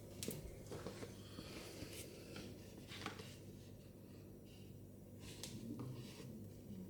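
Hands handling small plastic Mini Brands toy pieces: a few soft, scattered clicks and taps with light rubbing between them.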